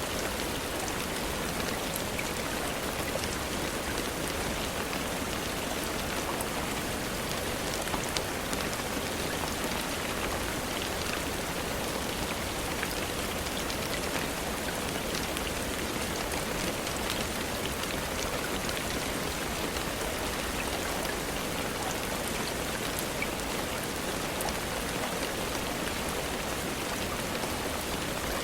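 Steady rain falling, an even hiss with many small, scattered drop ticks on a surface.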